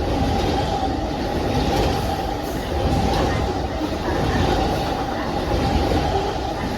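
Amtrak Auto Train passing at speed: a steady rumble of steel wheels on the rails, with a steady tone running through it.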